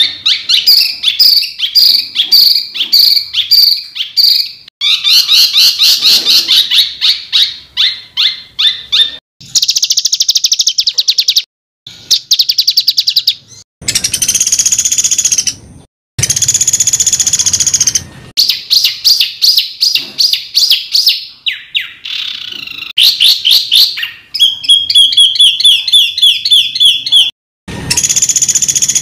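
Songbirds' harsh, rapid-fire song phrases: fast strings of repeated chattering notes, trills and quick glides in a loud, high register. They come as separate spliced segments of a few seconds each, with abrupt cuts and short silences between them.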